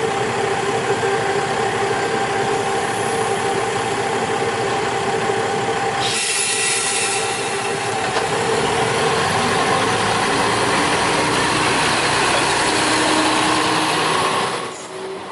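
Diesel railcar engine idling steadily, then a loud burst of air hiss about six seconds in, after which the engine runs louder and harder as the train moves off. The sound drops away shortly before the end.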